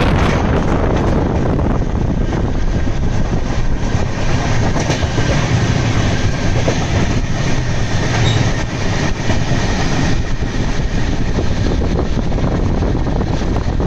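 Double-decker passenger train running steadily at speed, heard from an open doorway: a continuous rumble and clatter of the wheels on the track, with air rushing past the microphone.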